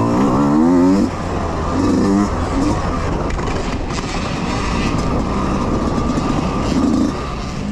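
Youth dirt bike engines revving hard as the bikes ride by, the pitch climbing and dropping in quick steps in the first second and rising again a couple of times later.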